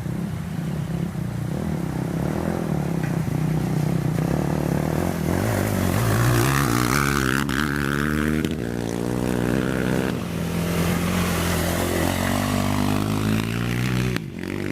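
Racing engines running and revving, several at once, rising and falling in pitch through the middle.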